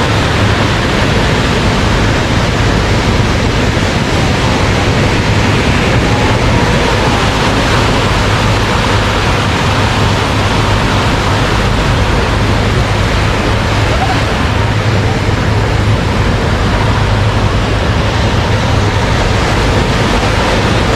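Ocean surf washing steadily onto the beach: a continuous dense hiss over a low rumble, with no distinct breaks.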